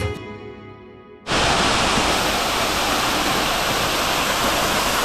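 Background music fades out over the first second, then a sudden cut about a second in to the steady, loud rushing of a waterfall.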